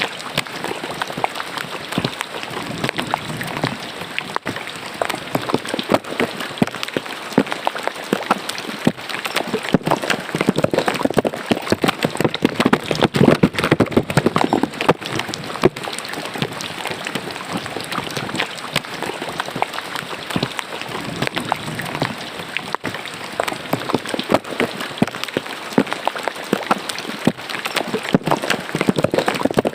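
Rain falling into a drainage ditch: a dense, steady patter of drops on water, growing a little louder about halfway through.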